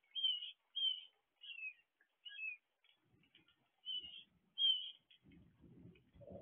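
A bird calling a series of short, clear chirps, some sliding downward in pitch, about one or two a second. A low, steady noise comes in near the end.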